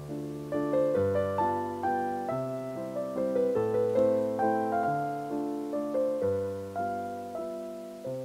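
Background piano music: a soft melody of single notes and chords, a new note struck about every half second and left to ring and fade.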